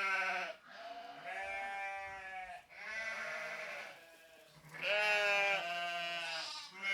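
Sheep bleating: a series of wavering bleats, each a second or two long, with short pauses between them.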